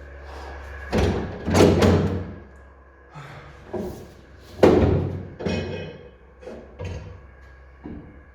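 A car hood being handled and fitted onto its hinges: a series of irregular knocks and thuds, the loudest about a second in and again near five seconds in.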